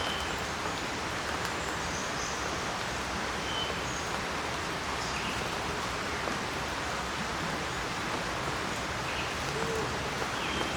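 Steady, even rushing noise, with a few faint, short bird chirps scattered through it.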